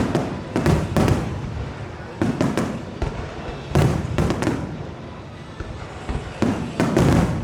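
Aerial fireworks shells bursting in quick clusters: sharp cracks and booms every half second to a second, several landing almost together near the start, around two and four seconds in, and again near the end, each with a rumbling echo dying away.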